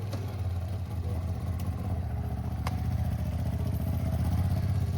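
Ducati motorcycle engine running steadily at low revs, growing slightly louder.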